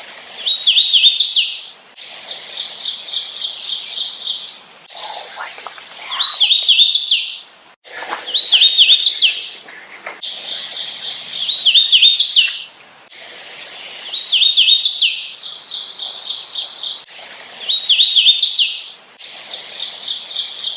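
Hooded warbler singing over and over: clear whistled phrases a second or two long, a new one every couple of seconds, some an even run of repeated notes and others slurred down-and-up notes ending in an emphatic rising flourish.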